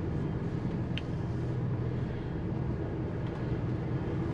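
Lorry's diesel engine running steadily, heard from inside the cab, with one brief click about a second in.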